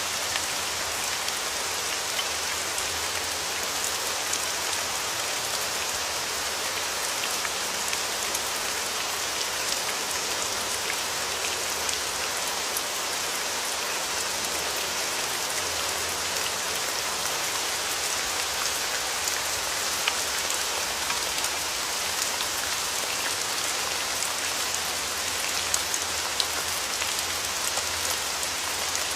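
Steady rain falling, an even hiss with many small sharp drop impacts and a few louder individual drops.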